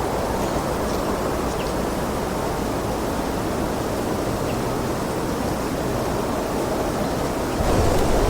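Steady wind blowing, a noisy rushing with a deep rumble, swelling into a stronger gust near the end.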